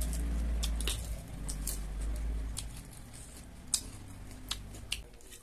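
Close-miked chewing of crunchy singju, a salad of raw shredded cabbage and mimi (instant) noodles, with fingers picking through it in a steel bowl. It gives an uneven run of sharp crunches and crackles.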